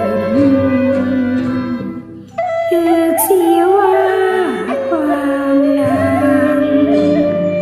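A woman singing a slow Thai song over instrumental accompaniment, her melody sliding and wavering in pitch, with a brief break between phrases about two seconds in.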